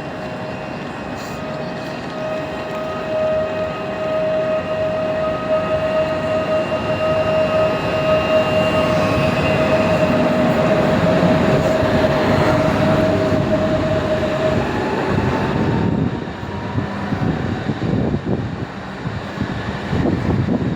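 Train passing through a station, its rolling noise growing louder with a steady high whine that stops about two-thirds of the way through. Near the end come uneven knocks of wheels over rail joints.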